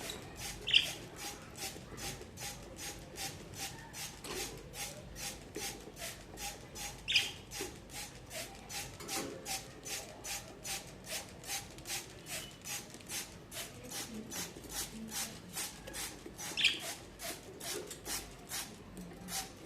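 Budgerigars giving a few short, sharp squawks, three of them loud, over an even pulsing noise that repeats about two and a half times a second.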